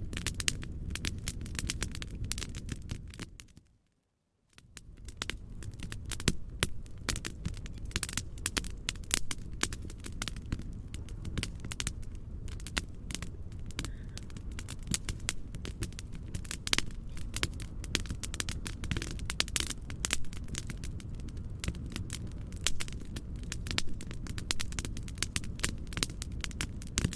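Fireplace crackling, with many sharp pops and snaps over a steady low rumbling noise. The sound fades out to silence about four seconds in and comes back half a second later.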